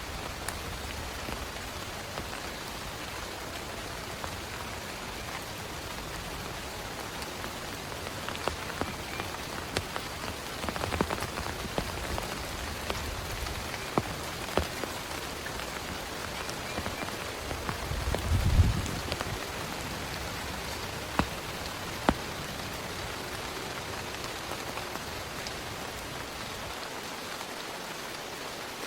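Steady heavy rain, with scattered sharper taps of individual drops. A brief low thump about eighteen seconds in is the loudest moment.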